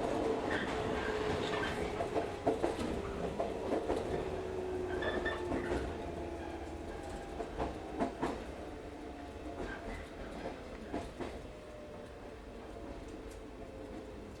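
Local electric train heard from inside the car, wheels clacking over rail joints with a steady rolling rumble. A faint motor whine slowly falls in pitch as the noise dies down: the train is slowing.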